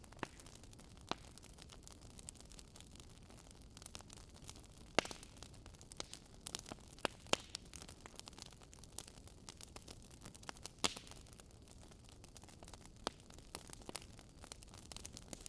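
Campfire crackling: irregular sharp pops and snaps of burning wood over a soft steady hiss, with a few louder pops about five, seven and eleven seconds in.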